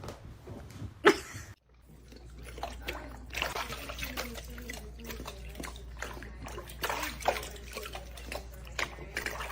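Water splashing and trickling over a steady low hum, starting after a brief drop-out about a second and a half in.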